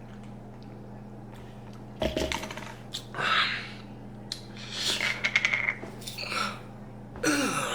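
A person clearing the throat and breathing out hard in short bursts, with a few clicks, as he tries to shift food stuck going down.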